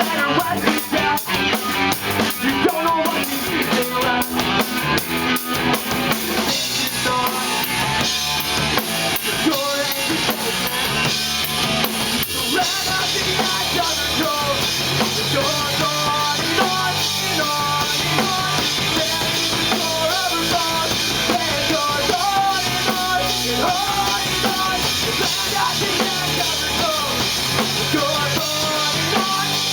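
Live three-piece rock band playing, with electric guitar, bass guitar and drum kit. The first six seconds or so have sharp, separate drum hits; after that the drums open into a steady wash of cymbals under the guitar and bass.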